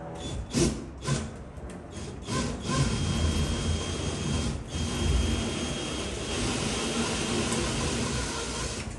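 A power tool cutting holes for network and camera installation: a few short knocks and brief starts, then about two and a half seconds in it runs steadily through the material with a faint high whine.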